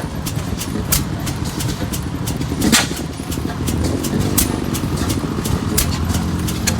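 Old stationary engines running, a low rumble with sharp, irregular pops.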